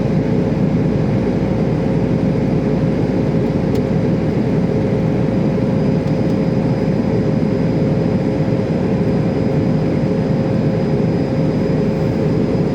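Steady drone of an airliner in flight heard from inside the cabin: an unchanging rumble with a constant hum running through it.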